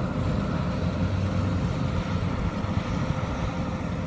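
Kubota combine harvester's diesel engine running steadily under load, a constant low hum.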